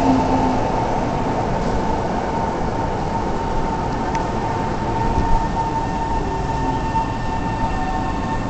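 Tokyo Metro 05 series electric train at a standstill, giving off a steady high whine over a low rumbling hum. A low falling tone from the train dies out within the first second as it comes to rest.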